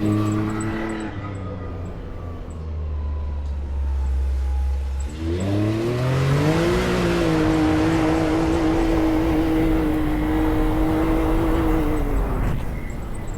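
Off-road vehicle's engine running low, then revving up about five seconds in and holding steady high revs for several seconds with a rushing noise over it, before easing off near the end.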